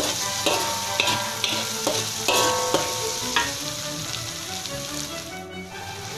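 Blended onion, garlic, chilli and dried-shrimp paste sizzling steadily in hot oil in an aluminium wok, being sautéed until crisp. A metal spatula scrapes and clinks against the wok about twice a second for the first few seconds, then less often.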